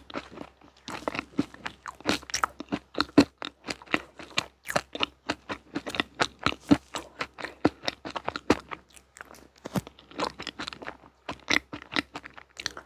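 Close-up chewing and biting of crunchy sweets, with rapid, irregular crunches several times a second.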